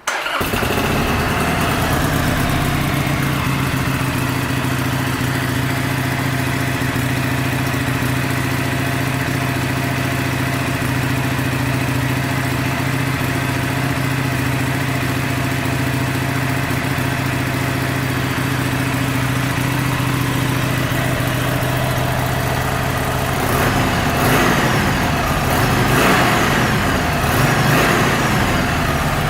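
Harley-Davidson Sportster Iron 883's air-cooled V-twin starting up and idling steadily. Over the last several seconds the throttle is blipped a few times, each rev rising and falling back to idle.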